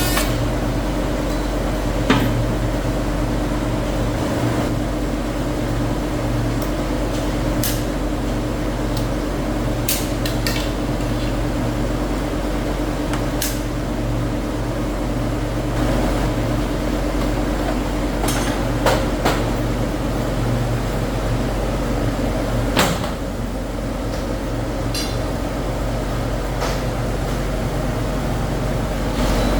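Steady hum of factory machinery, with sharp clicks and knocks now and then, about a dozen in all, the loudest around two seconds in and near the end.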